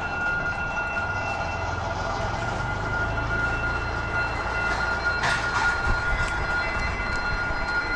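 A passenger train running past with a steady low rumble. A constant high-pitched tone sounds over it throughout.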